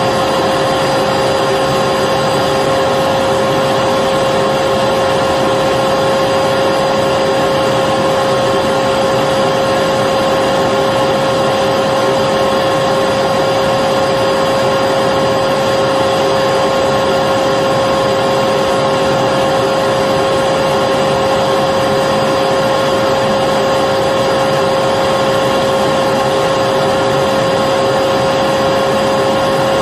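Electric vacuum cleaner running continuously, a steady whooshing rush of air with a constant motor whine and no change in pitch.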